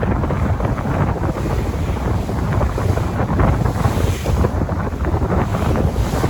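Sea waves washing, one swelling about two thirds of the way in, with wind buffeting the microphone in a low rumble.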